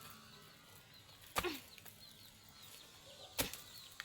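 Two sharp thumps about two seconds apart, with faint, rapid bird chirping throughout.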